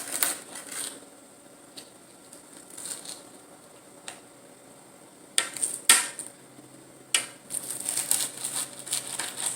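Kitchen knife striking a cutting board while vegetables are cut: a few scattered taps, two sharp knocks around the middle, then a run of quick chops near the end.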